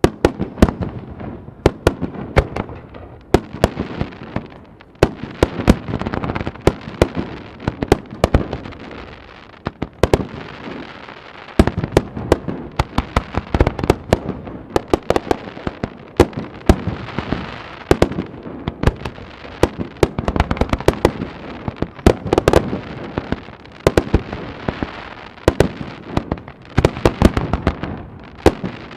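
Fireworks display in full barrage: a dense, unbroken run of sharp bangs and crackles, several a second, over a continuous rumble, starting abruptly right at the beginning.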